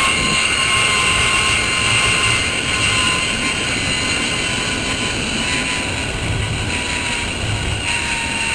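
Zip line trolley pulleys running fast along the steel cable: a steady whine that sinks slowly in pitch and fades a little, over rumbling wind noise on the microphone.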